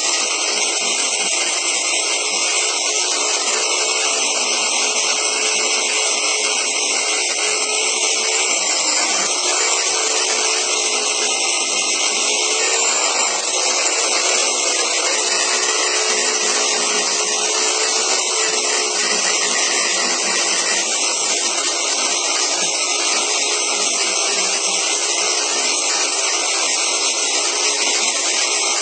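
Half-inch electric belt sander running steadily while sanding wood, a constant whine whose pitch wavers slightly as pressure on the work changes.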